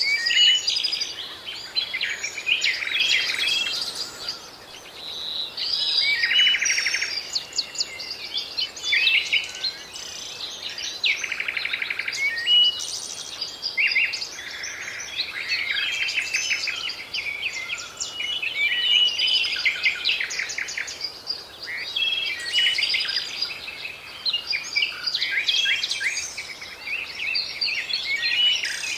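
Several birds chirping, trilling and whistling over one another without pause, over a faint steady hiss.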